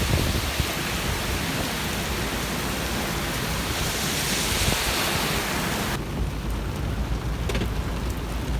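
Heavy rain falling with a steady, even hiss. About six seconds in it changes abruptly to a duller, lower rumble with a few faint ticks.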